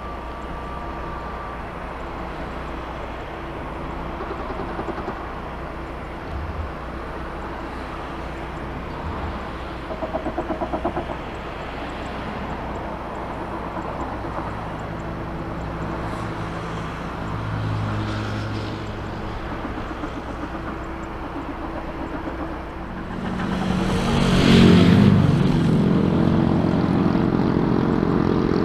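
Airliner engines running: a steady distant rumble that swells sharply about 23 seconds in as the aircraft passes close, loudest a second or two later and staying loud after that.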